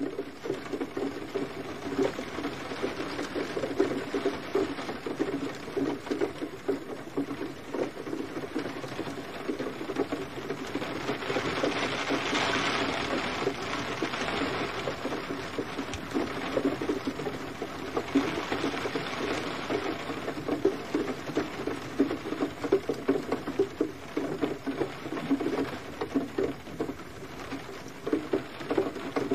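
Gentle rain falling as a dense stream of small close drops on a surface, with the hiss of the rain swelling about twelve seconds in and again around nineteen seconds.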